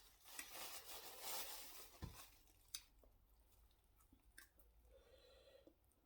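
Faint close-up sounds of eating fufu with ogbono soup: wet chewing and lip smacks, with a few sharp clicks.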